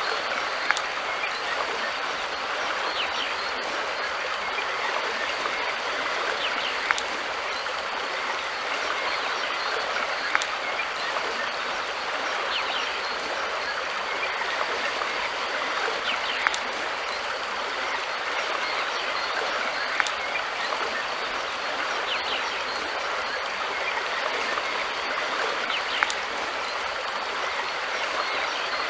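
River water flowing steadily, a constant rushing hiss, with a sharp click every few seconds.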